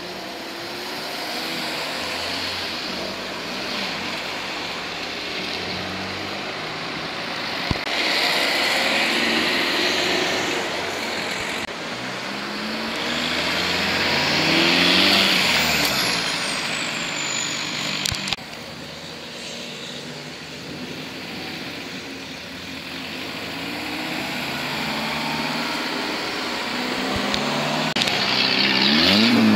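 Modified cars driving past one after another, engines accelerating, each pass rising and then falling in pitch; the loudest pass comes near the end.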